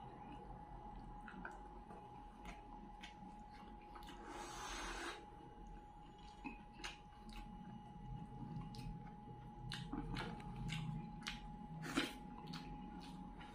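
Close-miked mouth sounds of a man eating fried fish and rice by hand: wet chewing and lip smacks with many small clicks, a short breathy rush about four seconds in, and a sharp louder click near the end. A faint steady high tone hums underneath.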